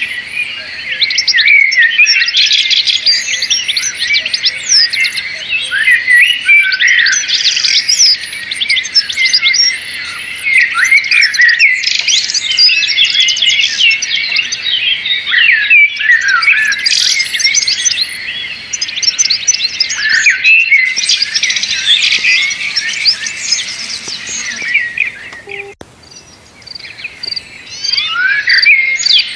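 Many small birds chirping and twittering at once, a dense run of overlapping short high-pitched calls, with a brief lull near the end.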